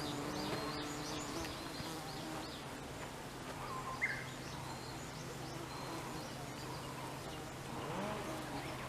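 An insect, most likely a bee, buzzing steadily at a low pitch, with a second, higher buzz in the first second or so. Short bird chirps sound faintly now and then.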